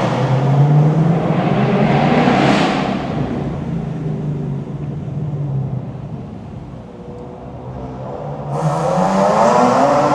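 Car engine accelerating, its pitch climbing and falling through the gears. It eases off to a quieter run around the middle, then opens up again with a sudden louder rise about eight and a half seconds in.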